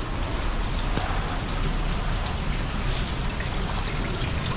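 Steady rain falling, a dense even hiss dotted with many small drop ticks.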